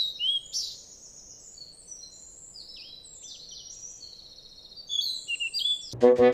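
Bird chirping: a quick run of short, high chirps, most falling in pitch, some overlapping.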